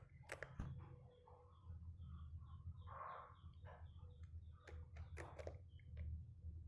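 Sooty-headed bulbul giving a run of short, even chirps, about five a second, mixed with a few sharp clicks and taps.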